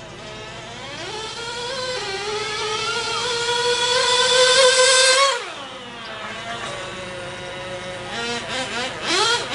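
Small two-stroke nitro glow engine (GO 0.98cc) of a 1/16-scale RC buggy, its high-pitched whine rising steadily under throttle for about four seconds, then dropping sharply as the throttle closes. A few short throttle blips follow near the end before it climbs again.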